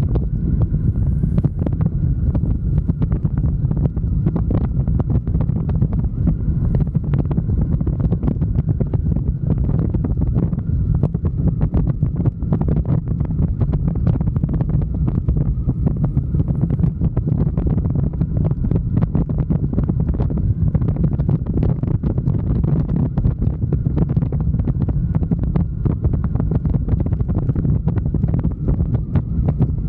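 Wind buffeting the microphone of a moving motorcycle, a steady heavy rumble with constant flutter, and a faint steady whine above it.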